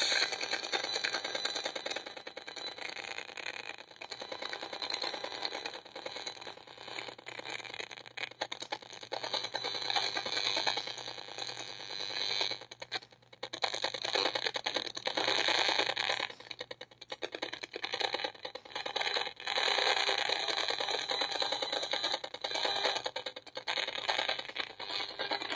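Safe & Sound Pro 2 RF meter's audio output: a dense crackling static of fast clicks that swells and fades, dipping briefly about 13 and 17 seconds in. It is the meter sounding out pulsed radio-frequency signal, which the owner takes for the microwave auditory (Frey) effect.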